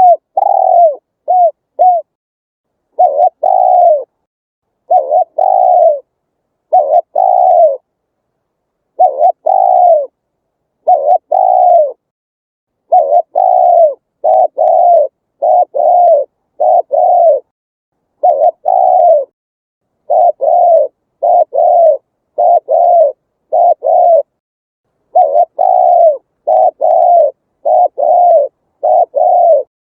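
Spotted dove cooing: a long series of short coos, each one an arching note that falls away at the end, mostly given in quick runs of two to four with short silent gaps between runs.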